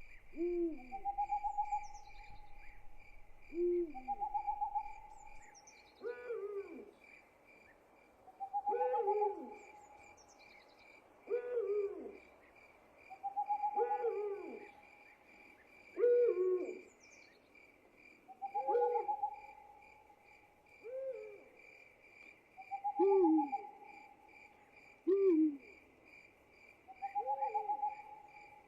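An owl hooting over and over, a call every two to three seconds, over a steady, pulsing chorus of crickets.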